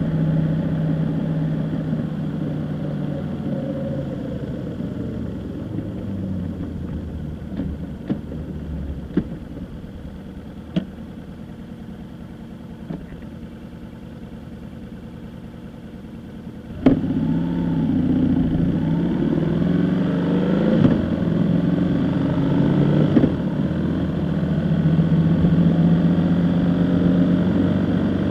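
Vehicle engine running on the move. It eases to a lower level for a stretch with a few scattered knocks, then after a sharp click about seventeen seconds in it picks up again, louder, with the pitch shifting.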